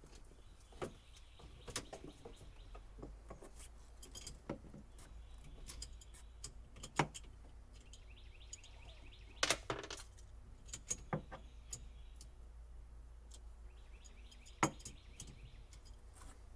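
Irregular light clicks and metallic clinks of hand work on old boat wiring, a few sharper knocks among them. Birds chirp in short runs in the background.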